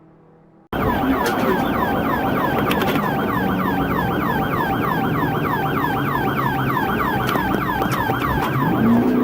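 Police car siren in fast yelp mode, a rapid rising-and-falling sweep about three times a second. It cuts in suddenly about a second in, over the steady rumble of the car's engine and road noise.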